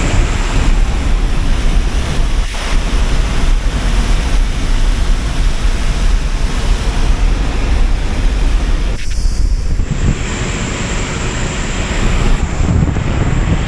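Loud, steady rush of wind buffeting the microphone, with a short lull about nine seconds in.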